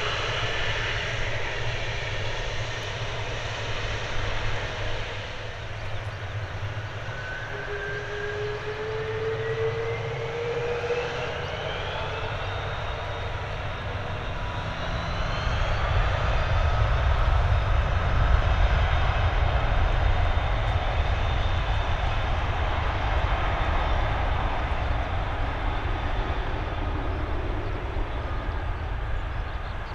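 Boeing 747-400F's four jet engines spooling up for takeoff: a whine rises in pitch over several seconds, then a louder, deep rumble builds as takeoff thrust comes on.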